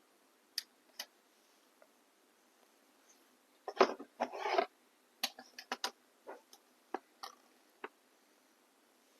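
Scattered small clicks and taps with a short cluster of louder scratchy rustling about four seconds in, from nail polish bottles and nail tools being handled on the work table.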